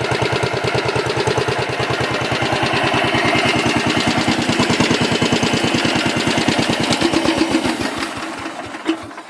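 1968 Case 195 garden tractor's engine running with an even firing beat, then shut off about eight seconds in, its beat slowing and dying away within a second.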